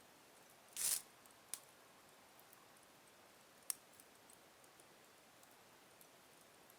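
Wood fire burning slowly in a fireplace: faint crackling with a loud sharp crackle about a second in, a smaller pop soon after, and a single sharp snap midway, over a quiet hiss.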